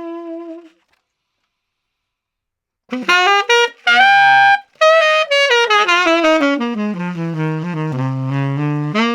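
Conn 10M tenor saxophone with a SYOS mouthpiece and a Boston Sax Shop blue box reed, recorded dry with no reverb. A held note ends, then after about two seconds of silence come a few short notes, a high held note, and a long run falling step by step into the low register, ending on a held note.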